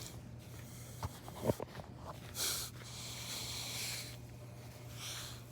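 A person breathing and sniffing close to the microphone, in soft hissy swells, with a couple of small handling clicks and a steady low hum underneath.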